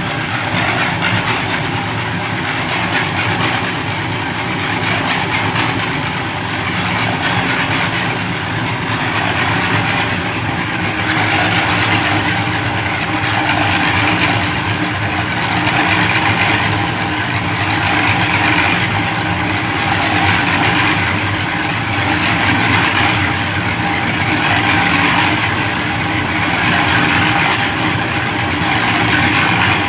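An engine running steadily under a rushing noise that swells and fades about every two seconds.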